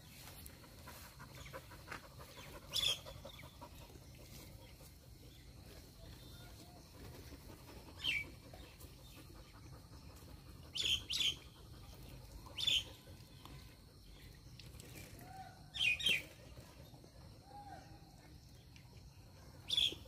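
Short, sharp bird chirps, about eight of them, spaced irregularly and sometimes in quick pairs, each dropping slightly in pitch.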